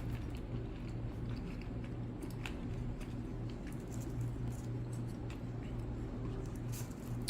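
A person chewing a mouthful of chewy octopus, with small scattered clicks, over a steady low hum.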